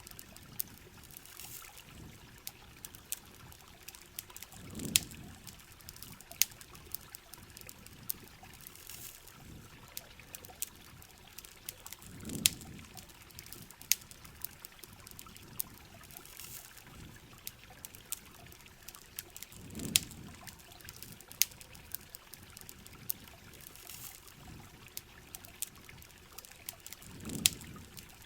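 Heavy rain pouring and trickling, with frequent sharp pops over the steady hiss and a low swell that comes back about every seven and a half seconds.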